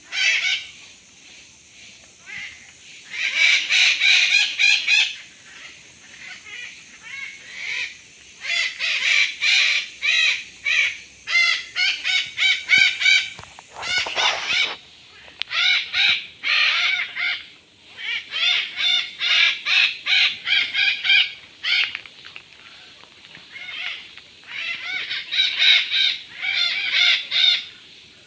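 Birds calling in bouts of rapid, repeated calls, each bout lasting a few seconds, with short lulls between.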